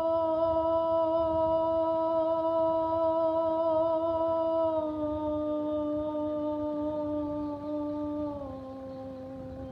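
A voice toning a long, steadily held note that steps down in pitch twice, about halfway through and near the end, and turns softer after the second drop.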